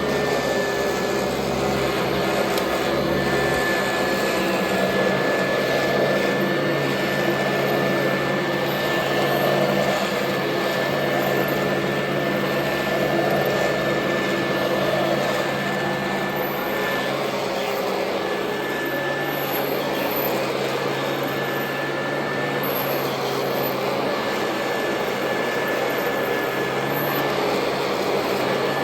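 Royal Model 2008 upright vacuum cleaner running steadily: a continuous motor rush with a thin high whine over a low hum, its loudness swelling and easing slightly.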